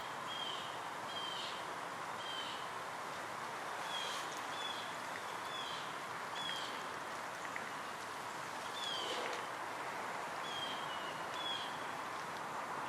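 A bird repeating short, slightly falling high chirps, roughly one a second, over a steady hiss of outdoor background noise.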